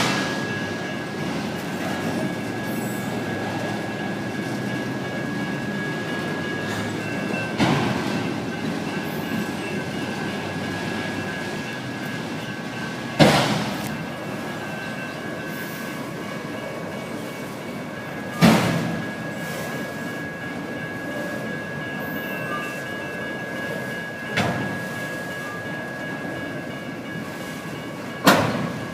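A long BNSF autorack freight train rolling through a grade crossing: a steady rumble of wheels on rail, with a sharp loud clank about every five to six seconds. Over it, the crossing's electronic bells sound as steady high tones.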